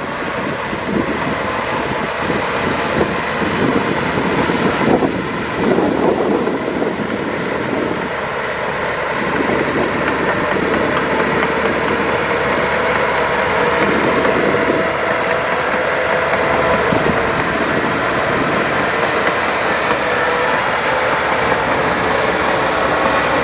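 Heavy diesel earthmoving machinery, such as a bulldozer or dump truck, running steadily under work, with a constant mechanical whine over the engine.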